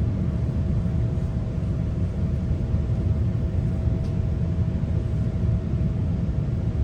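GO Transit bilevel coach in motion, heard from inside: a steady low rumble of the train running on the track, with a faint steady hum above it.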